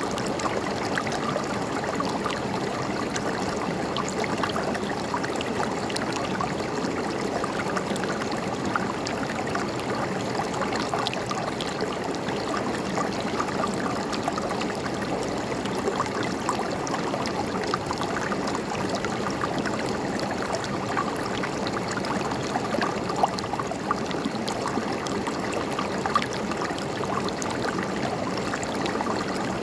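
River water flowing and gurgling steadily, with a few brief louder splashes.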